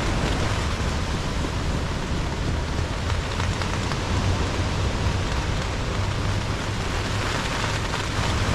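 Strong wind and rain in a storm: a steady wash of rain with a constant low rumble of wind buffeting the microphone.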